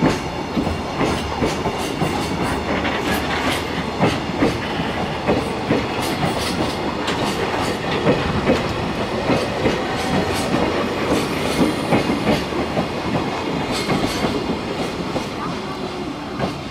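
Empty container flatcars of a freight train departing a station, rolling past with a steady rumble and repeated clacks of wheels over rail joints. The last wagon passes near the end.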